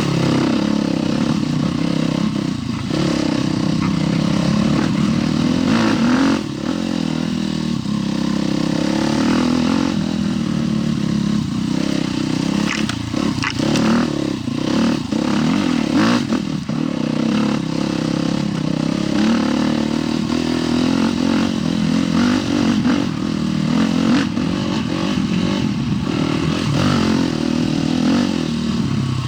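Husqvarna TE 310 single-cylinder four-stroke dual-sport motorcycle being ridden, its engine revving up and down with the throttle, with several knocks and clatter from the bike over rough ground.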